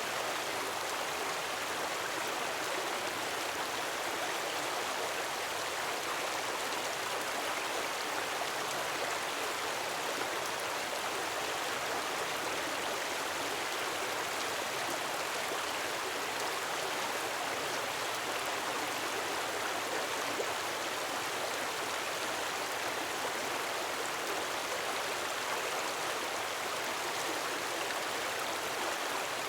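Gentle waterfall: a steady, even rush of falling water splashing into a pool.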